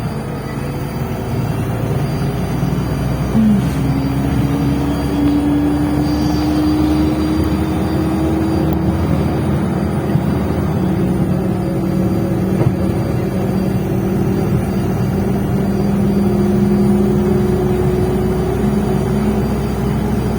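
Interior of a MAZ-105 articulated city bus under way: engine and drivetrain running with a steady rumble and a whine that rises slowly in pitch as the bus picks up speed, then holds.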